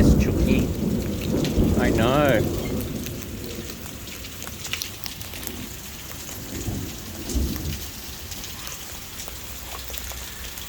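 A thunder rumble dying away over the first few seconds, then heavy rain falling steadily.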